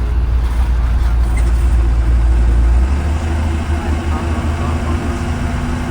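A 2020 Blue Bird Vision school bus engine running, heard from inside the bus. It is a loud, steady low rumble whose deepest note drops out about three seconds in, as the engine's speed changes.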